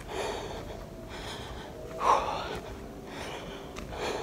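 A woman breathing hard in repeated audible gasps, about one a second, the loudest about two seconds in: winded from hiking uphill while out of condition.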